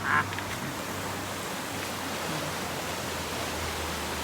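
River water rushing steadily over rocks, an even hiss of flowing water, after a brief voice at the very start.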